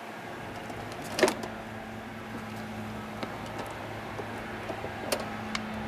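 Plastic door trim panel being worked off a Ford Expedition's front door: a sharp click about a second in and a few lighter clicks and knocks later, over a steady low hum.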